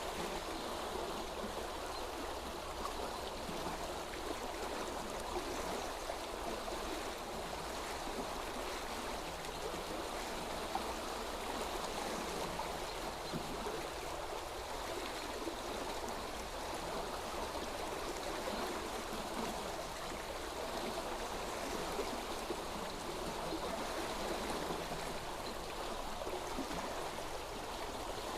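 A stream of water running steadily, an even, unbroken babble.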